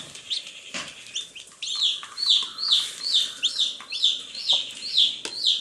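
Baby chicks peeping: high calls that each fall in pitch, scattered at first, then repeating about twice a second from about two seconds in.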